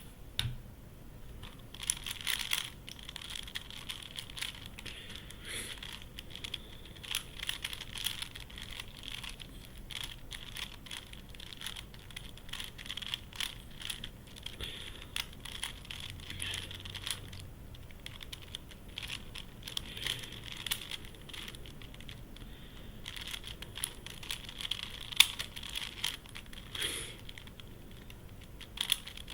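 Plastic pieces of a YuXin Corner Helicopter 2x2 twisty puzzle clicking and clacking as it is turned by hand during a speedsolve: an unbroken run of irregular short clicks, many to the second.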